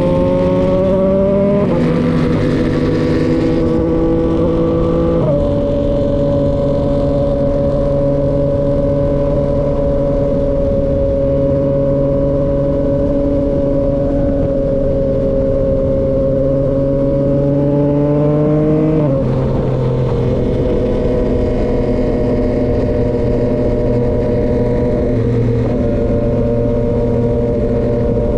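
2023 Yamaha XSR900's inline-three engine running loud through an SC-Project CRT aftermarket exhaust while riding. The engine note climbs and drops at a gear change about two seconds in and jumps up a few seconds later. It then holds a long steady cruise note, which drops again near the end.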